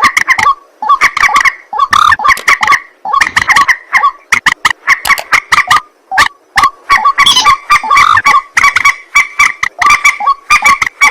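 Rails (white-breasted waterhen and moorhen) calling loudly: fast runs of repeated harsh croaking notes, broken by short pauses about three and six seconds in.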